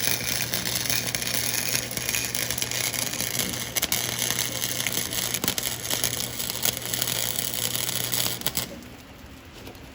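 Electric welder welding a 3-inch exhaust pipe: a continuous crackling arc over a steady hum, stopping suddenly about eight and a half seconds in.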